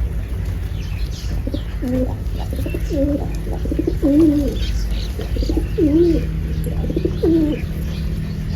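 Pigeon cooing, a run of repeated low coos over several seconds, with faint higher chirps and a steady low rumble underneath.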